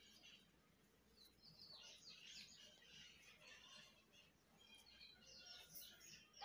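Near silence with faint, quick, high bird chirps repeating through the background.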